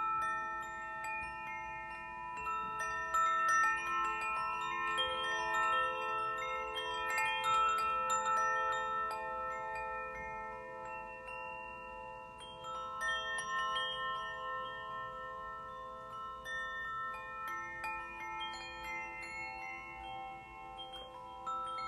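Struck metal percussion, chimes and small bells with steel-drum-like notes, played in a loose, unhurried pattern. Many ringing tones overlap and sustain, with a sprinkle of light high tinkles throughout.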